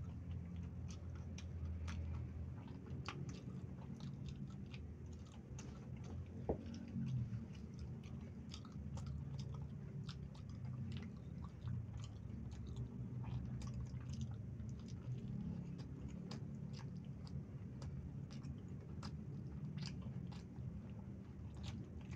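Close-up mouth sounds of someone chewing and biting fried snacks with chocolate sauce: many short wet clicks and smacks, with a sharper click about six and a half seconds in, over a steady low hum.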